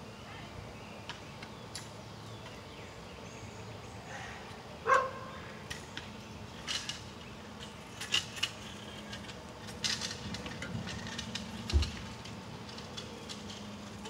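Quiet outdoor background with a few short, sharp bird chips. One louder call sweeps down in pitch about five seconds in, and a dull thump comes near the end.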